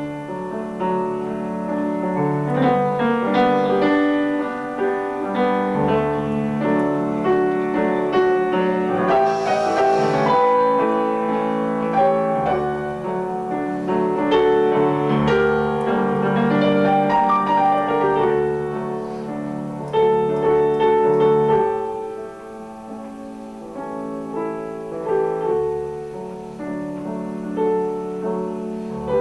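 Piano playing a flowing melody over chords, the notes struck and ringing, softer in the last few seconds.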